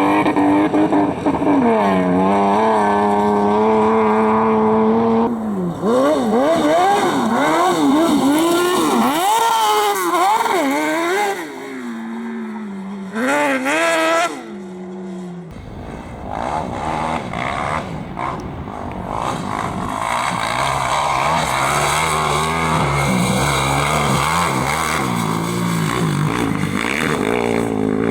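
Competition engines revving hard on a dirt course, pitch climbing and dropping sharply with throttle blips and gear changes. About halfway through it cuts to another, lower-pitched engine that grows louder towards the end.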